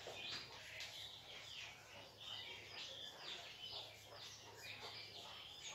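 Faint chirping of small birds in the background, with chalk scratching and tapping on a blackboard as a word is written. A low steady hum sits underneath.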